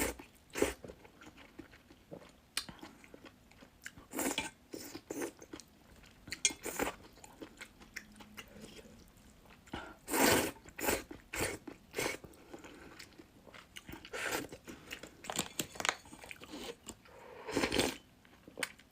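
Close-miked eating of luosifen noodles with crunchy fried tofu skin: irregular crunching bites and chewing. The bites come in bursts, the loudest clusters about a second in, around four seconds, around ten seconds, and near the end.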